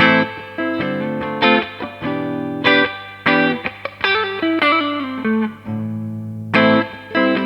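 Electric guitar, a Gibson Les Paul Studio, played through a Marshall JTM60 amplifier: a phrase of picked chords and notes, each struck sharply and left ringing, with one longer held chord past the middle.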